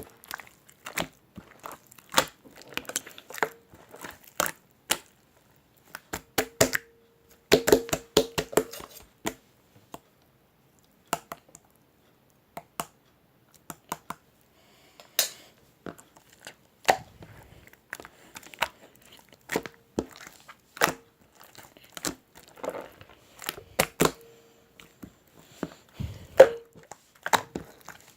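Irregular series of sharp clicks and crinkling sounds, thinning out for a few seconds in the middle.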